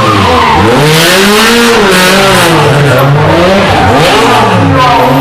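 Rally car engine at full racing load, very loud, its pitch climbing and dropping several times as the driver revs hard and backs off, with some tyre noise.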